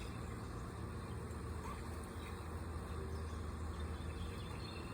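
Honeybees buzzing around an opened hive: a steady, even hum.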